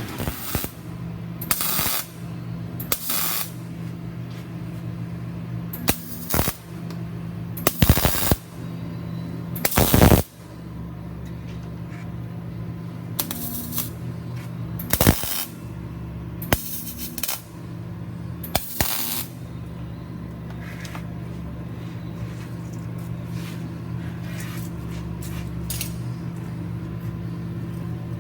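Repeated short, loud bursts of a power tool, about a dozen, mostly in the first two-thirds, over a steady machine hum.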